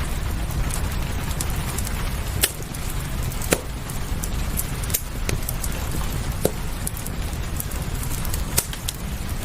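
Fireplace crackling, with a handful of sharp wood pops scattered through, over a steady hiss of rain.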